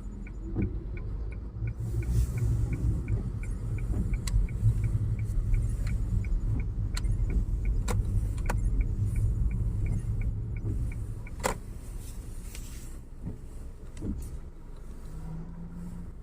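Car running, with a steady low engine and road rumble heard from inside. A regular light ticking, about three or four a second, runs through the first few seconds and then stops, and scattered sharp clicks sound throughout.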